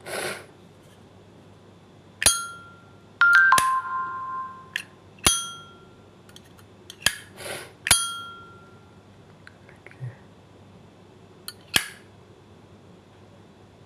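Solid brass Zippo lighter being worked by hand: about eight sharp metallic clicks as the hinged lid is flipped open and snapped shut, several leaving a short ringing ping. There are two brief rasps, one at the start and one about halfway through.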